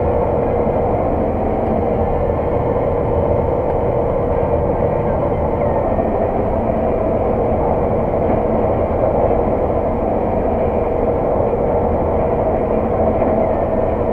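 Claas Lexion 600 TT combine harvester running steadily while harvesting oilseed rape, heard from inside the cab: a constant engine and machinery drone with a steady hum running through it.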